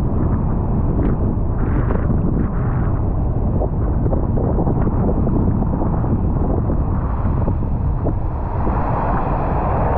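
Heavy, steady wind rumble on the GoPro's microphone on a moving motorcycle, with the bike's engine and road noise underneath.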